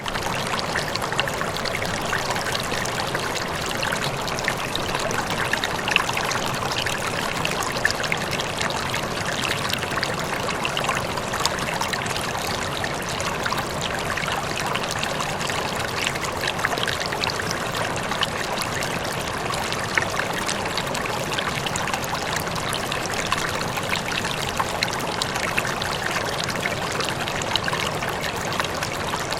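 Running water flowing steadily, like a stream, with many small splashes throughout.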